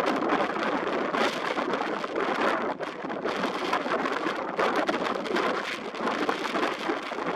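Strong gusty wind buffeting the microphone, a rough, crackling rush that surges and eases every second or so.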